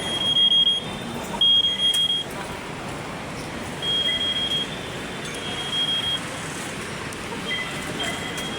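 MRT-3 light-rail train running with a steady rumble, and a high-pitched tone sounding again and again, each lasting about half a second, loudest in the first two seconds.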